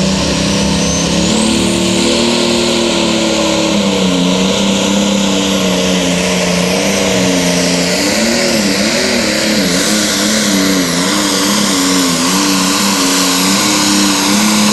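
Super/Pro Stock pulling tractor's turbocharged diesel engine running flat out under load while pulling the sled, with a high turbo whine rising at the start. The engine note holds steady, then wavers up and down from about halfway. It cuts off sharply at the very end as the throttle comes off.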